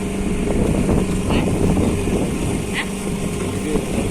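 Small boat's motor running steadily, with a dense low rattle. Two short high chirps sound over it, about a second and a half in and again near three seconds.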